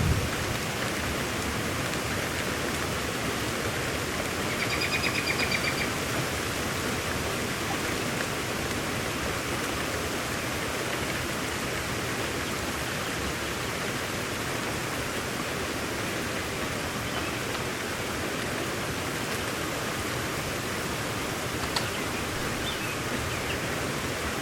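Steady rain falling, an even hiss with no let-up. A brief high trill sounds about five seconds in.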